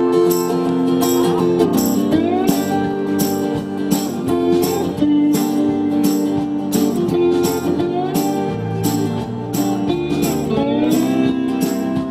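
Band instrumental intro of a pop-rock song: guitar with sliding notes over a steady drum beat, before the singing starts.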